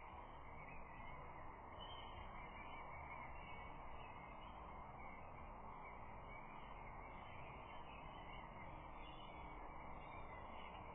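Faint, steady outdoor background noise picked up by the nest camera's microphone, an even hiss with no distinct calls or clatters.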